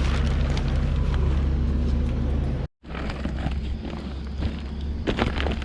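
Engine running steadily with a low, even hum. It cuts off abruptly for a moment about two and a half seconds in, then resumes slightly quieter.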